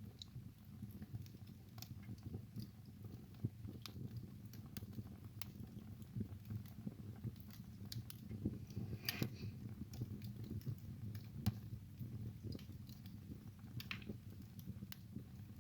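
Wood fire burning in a fireplace: a steady low rumble of flames with irregular sharp crackles and pops, a louder pop about nine seconds in and another near the end.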